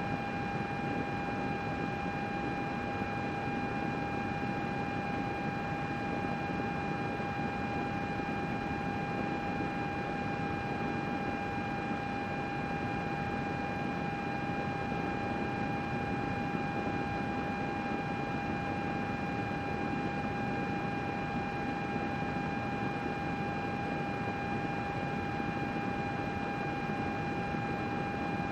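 Computer cooling fans running steadily: an even whoosh of air with a constant whine and a few fainter higher tones above it.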